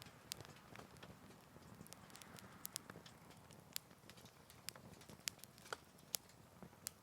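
Wood fire crackling in a Picogrill 398 fire pit: faint, irregular sharp pops and snaps, a dozen or so over the stretch, over a low background hiss.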